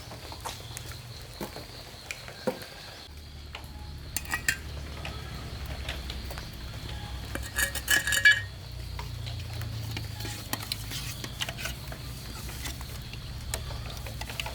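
Scattered light clicks and knocks, with two short runs of ringing metallic clinks about four and eight seconds in. A steady low hum runs underneath from about three seconds in.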